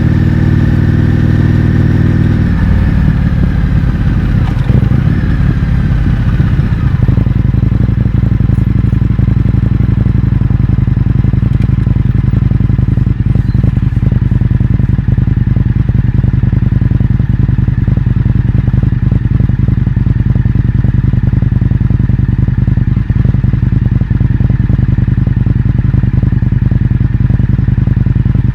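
Indian FTR 1200's V-twin engine through an Akrapovič exhaust with the baffles removed, running under way. The engine pitch falls in the first few seconds, then holds at a steady cruising note.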